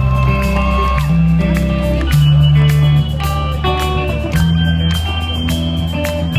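Rock band playing live: a guitar melody over sustained bass notes and a steady drum beat, with no singing.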